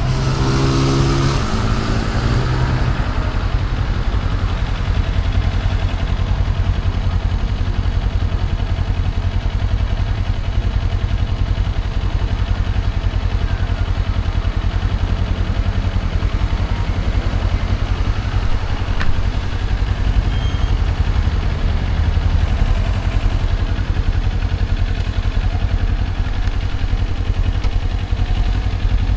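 Motorcycle under way: a steady low rumble of engine and wind noise at riding speed, with a pitched sound that falls in the first couple of seconds.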